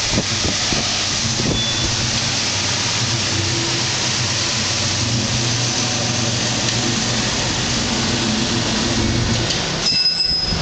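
Turbocharged 1998 Ford Mustang Cobra's 4.6-litre DOHC V8 running steadily on a chassis dyno under an even rushing noise, with a few knocks in the first second or so. The sound drops away briefly near the end.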